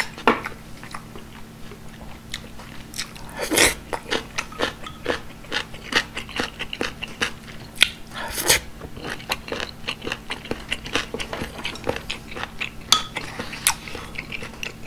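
Close-miked eating: steady chewing and wet mouth clicks on a mouthful of rice soup and boiled meat, with louder crunching bites of kimchi about eight seconds in.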